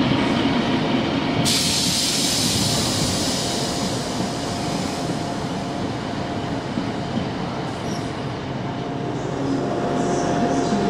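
Diesel multiple-unit trains running through the station, a steady rumble with a faint held tone. A high hissing squeal starts suddenly about one and a half seconds in and fades over the next several seconds. A low steady engine drone comes in near the end.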